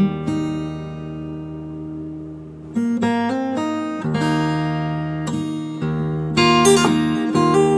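Acoustic guitar playing a slow, relaxing instrumental: a chord rings out and decays, then a run of plucked melody notes comes in over held bass notes about three seconds in.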